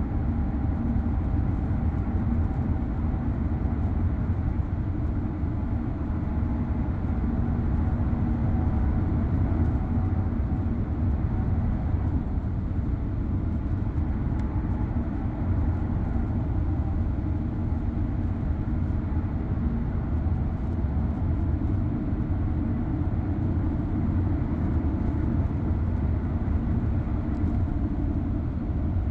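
Steady low rumble of a car driving: road and engine noise that holds even throughout.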